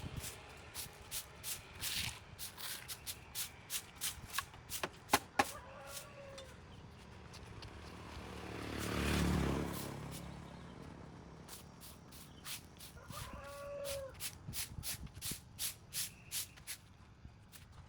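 Hand tools cutting and clearing grass and weeds, with irregular sharp snips and clicks. About nine seconds in, a swell of noise rises and fades, and two short pitched calls come near six and thirteen seconds.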